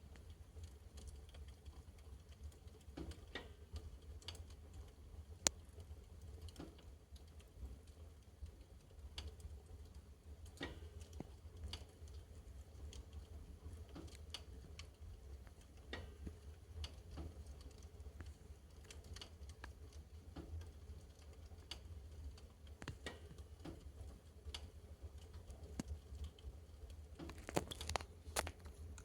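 Fire in a fireplace crackling with scattered small irregular pops as it burns through leather hotpants. A sharper pop comes about five seconds in and a quick run of pops near the end, over a steady low hum.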